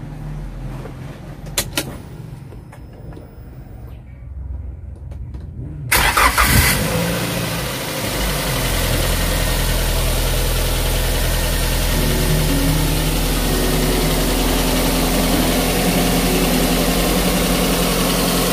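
Daihatsu Gran Max 1.3 pick-up's four-cylinder petrol engine being started. After a couple of short clicks, the starter cranks briefly about six seconds in, the engine catches at once and settles within a couple of seconds into a steady idle. The idle is smooth, with no rough noises: a sign of an engine in good health.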